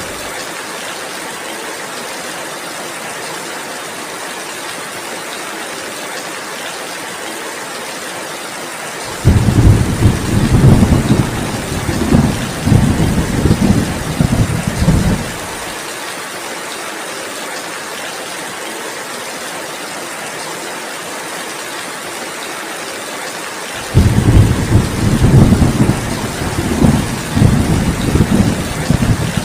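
Heavy rain falling in a steady hiss, with a long roll of thunder about nine seconds in lasting some six seconds, and another rolling in near the end.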